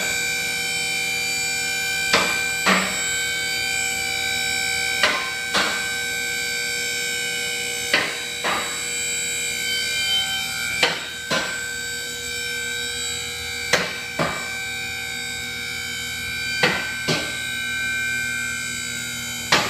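Vehicle lift raising a car: the lift's electric hydraulic pump runs with a steady whine, while the safety locks click in pairs about every three seconds as they pass each notch.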